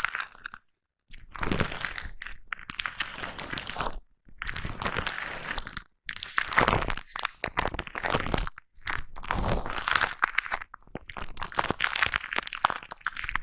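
Foam brush rubbed against the microphone in close-up ASMR: dense crackly, crunching scratching strokes, each one to three seconds long, with short silent breaks between them.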